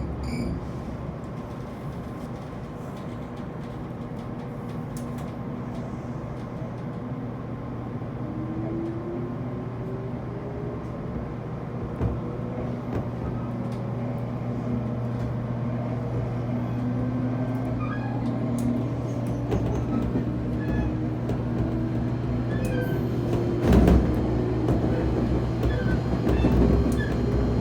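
JR Kyushu 811 series electric train heard from inside the car while accelerating: the howl of its internally fanned traction motors climbs slowly in pitch over a steady low hum. A brief louder rumble comes near the end.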